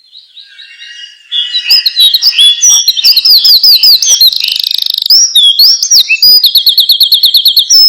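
Songbird singing close by: faint chirps at first, then from about a second and a half in a loud, varied song of quick repeated whistled notes and fast trills.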